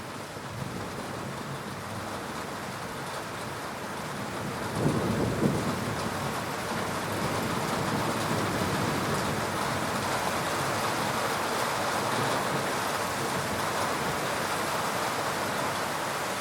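Steady rain falling, with a low rumble of thunder about five seconds in; the rain sounds a little louder after it.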